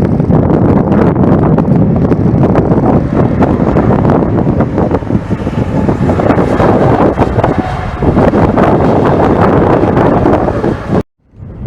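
Heavy wind buffeting the microphone in loud, gusty rumbles over the rumble of a jet airliner's engines. It cuts off abruptly about eleven seconds in.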